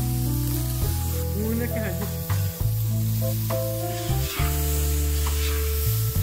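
Ground masala paste sizzling as it fries in a large iron kadai, with a long metal spatula stirring and scraping it against the pan. Background music with held notes plays alongside.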